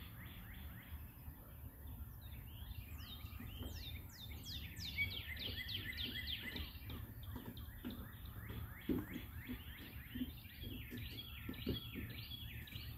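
Many small birds chirping, a dense run of short falling chirps that thickens a few seconds in, over a low steady rumble.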